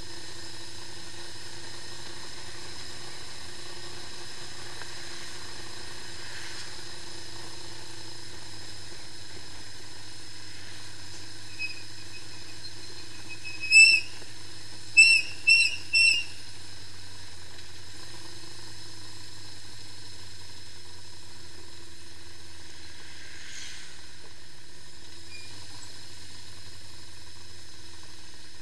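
Honda CB550 Four's air-cooled inline four-cylinder engine idling steadily. About halfway through, four short, high whistle-like chirps come in quick succession and are louder than the engine.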